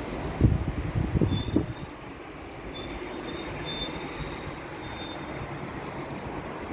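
Wind buffeting the microphone in a few heavy low thumps over a steady rumble. Then a series of thin, high squealing tones comes and goes for a few seconds.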